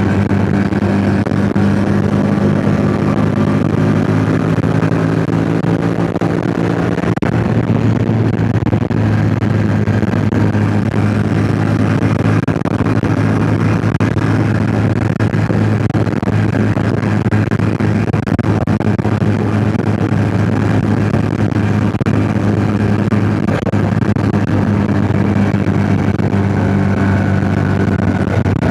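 Yamaha MT-07's 689 cc parallel-twin engine running at fairly steady revs while riding, with small rises and falls in pitch, and wind noise over the microphone.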